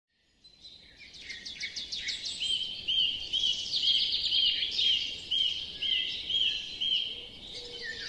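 Several birds singing, rising out of silence over the first seconds: one repeats a short arched whistle about twice a second while others trill rapidly higher up.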